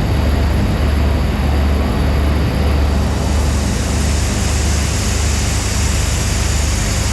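Locomotive running at a railway station: a steady heavy low rumble that pulses unevenly, with a hiss that rises about three seconds in.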